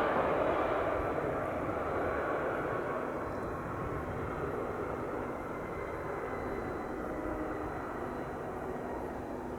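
Embraer Phenom 300 business jet's twin turbofan engines: a steady jet roar with a faint high turbine whine, slowly fading away.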